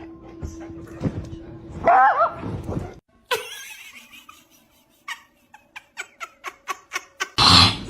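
A dog yelping and yipping: a wavering high whine about two seconds in, then a run of short, quick yips about five a second. A loud burst of noise begins near the end.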